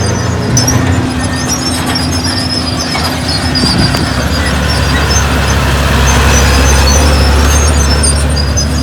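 Heavy diesel earthmoving machinery running steadily, with scattered short high squeaks over the engine hum. The engine note drops lower and grows a little louder about halfway through.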